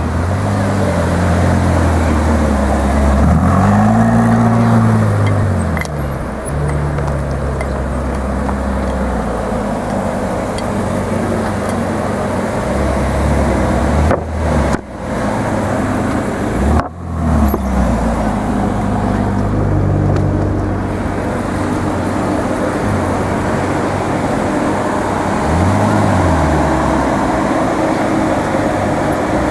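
Ferrari California's V8 engine running amid street traffic. Its revs rise and fall a couple of times, and the sound briefly cuts out a few times about halfway through.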